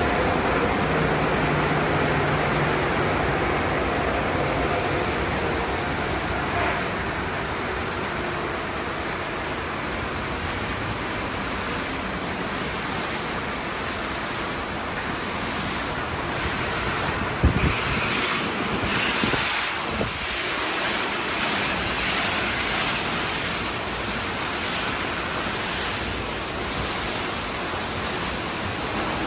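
Steady rushing noise of an express car wash tunnel's equipment running, with a brief knock about 17 seconds in.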